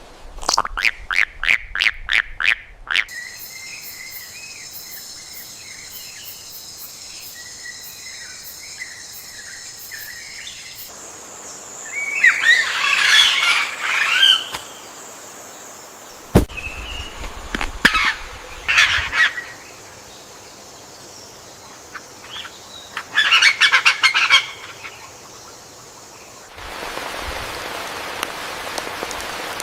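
Rainforest soundscape: bursts of bird calls (a quick run of calls at the start, then loud chattering clusters three times) over a steady high-pitched hum, with a sharp knock about 16 seconds in. Even rain noise comes in near the end.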